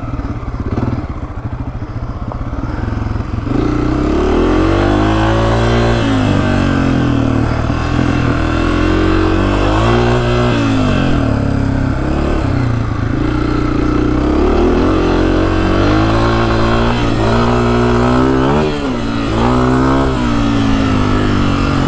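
Honda CRF250F dirt bike's single-cylinder four-stroke engine under way on a trail, revving up and down again and again as the throttle is worked. It runs low and quieter for the first few seconds, then its pitch climbs and drops repeatedly.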